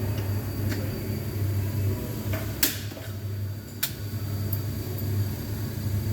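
Steady low hum of an idling engine, with three sharp clicks, the loudest about two and a half seconds in.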